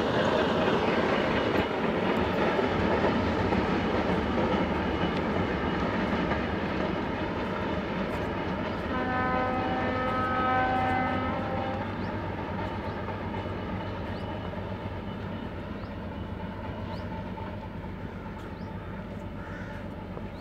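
A diesel-hauled freight train rumbling and rattling away along the track, slowly fading. About nine seconds in, a locomotive horn sounds one steady blast of about three seconds.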